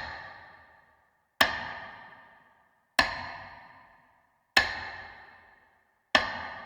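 A single struck, ringing note repeated at a slow, even pace, about once every one and a half seconds, each one dying away to silence before the next.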